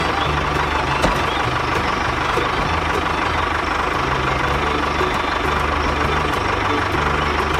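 Truck engine idling steadily, with a constant whine.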